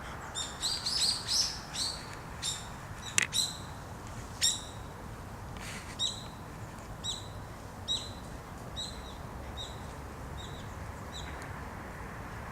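A bird calling in a series of short, high chirps, quick and bunched at first, then spaced out and fading away. There is one sharp click about three seconds in.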